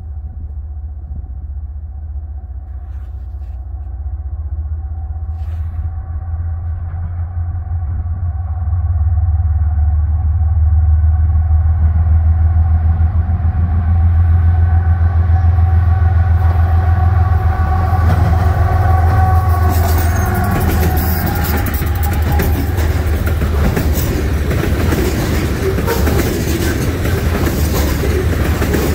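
Diesel freight locomotives approaching and passing, their deep engine drone growing louder over the first ten seconds. From about two-thirds of the way in, a line of loaded tank cars rolls by with the clatter and clicking of steel wheels over the rail joints.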